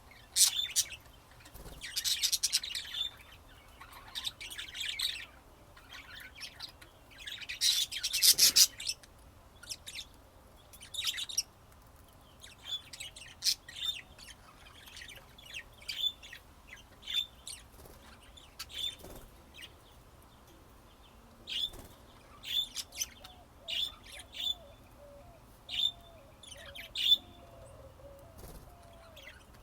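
Budgerigars chirping, with two longer bursts of loud chattering in the first third, then short single chirps about once a second.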